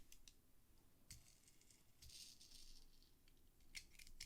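Near silence with a few faint clicks and a brief soft rustle, from a small die-cast toy car being handled.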